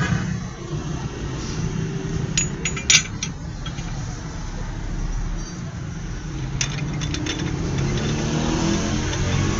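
Steady low motor hum, with two short clusters of sharp clicks about two and a half seconds and seven seconds in.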